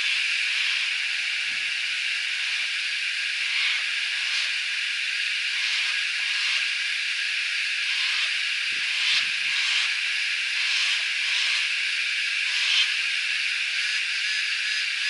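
Chorus of cicadas shrilling in the bush: one steady, unbroken high-pitched drone, with a few faint brief rustles.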